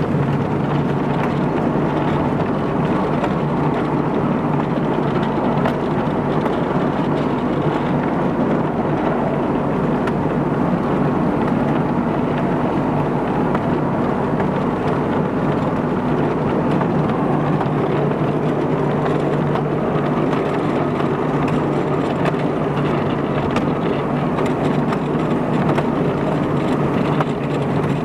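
Small railway train running steadily, heard from an open passenger wagon: a constant rumble and rattle of wheels on track with a steady low hum.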